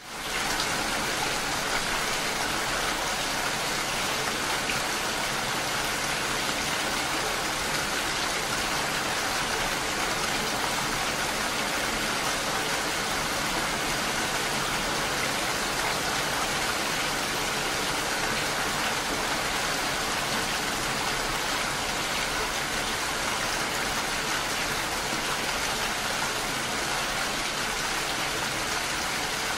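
Steady rain, an even hiss of rainfall without breaks, coming in sharply right at the start.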